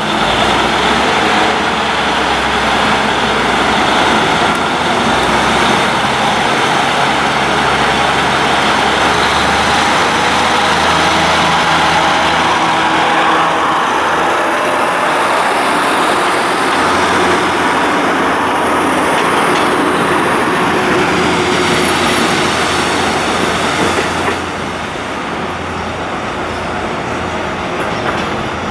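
A train running close by: a loud, steady rumble of wheels on rail with a low engine drone beneath. It starts abruptly and eases slightly about 24 seconds in.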